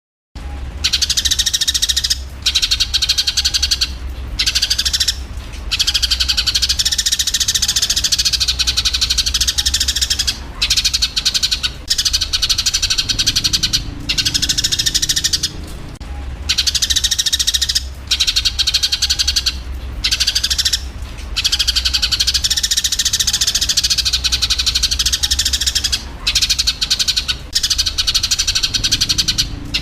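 A flock of Eurasian tree sparrows chattering harshly in a squabble: a dense, fast run of high calls, broken by short pauses every few seconds, over a steady low hum.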